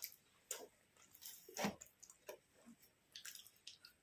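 Soft, irregular mouth clicks and smacks of someone chewing food, with a slightly louder wet smack about one and a half seconds in.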